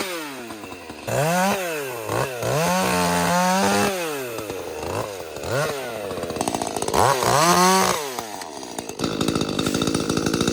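Ported Echo CS-310 30cc two-stroke chainsaw revving up and down again and again in quick throttle swells. It settles into a steadier, rougher run near the end.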